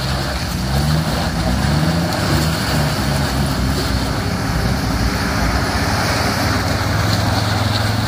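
Four-wheel-drive engine running as an SUV drives through a shallow river. The engine note wavers up and down in the first half, then holds steady, over a constant rushing noise.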